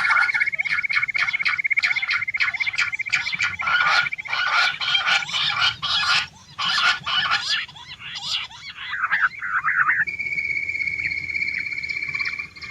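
Female quail calling: a rapid run of short, sharp repeated notes, several a second, stopping about nine seconds in, after which a steadier high trilling call carries on.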